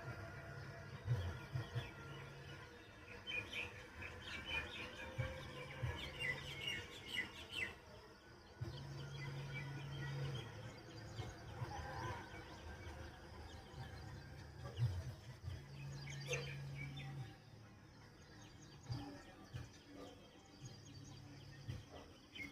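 Small birds chirping and twittering, busiest in the first half. Underneath, a low hum switches on and off every second or two.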